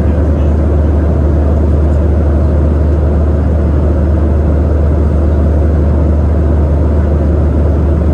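Steady cabin noise inside a Boeing 737-800 in flight: an even, low rushing noise of airflow and its CFM56-7B engines, heaviest in the deep bass and unchanging throughout.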